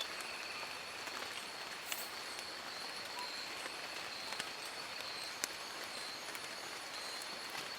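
Steady rain falling on forest foliage, with a few single louder drops and a thin, steady high-pitched tone running through it.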